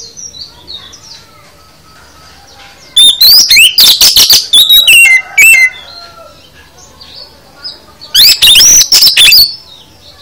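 Oriental magpie-robin (kacer) singing a varied 'full isian' song: two loud bursts of rapid, sweeping whistles and chattering notes, one about three seconds in and one about eight seconds in, with faint chirps between.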